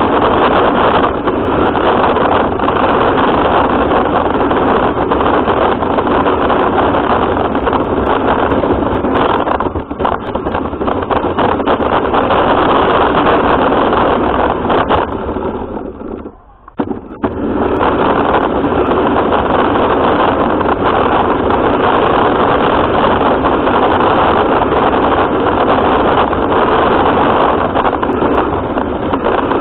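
RC car driving, heard through its onboard camera: a loud, steady noisy rumble of drive and wheels. It drops away sharply for about a second just past the middle, then resumes.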